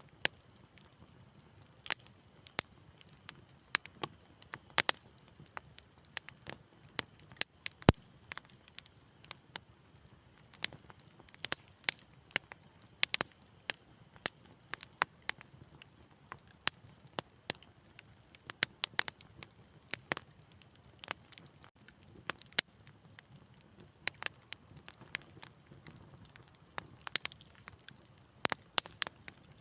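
Wood fire crackling: irregular sharp pops and snaps, several a second, over a faint low rumble of burning, with a louder crack about eight seconds in.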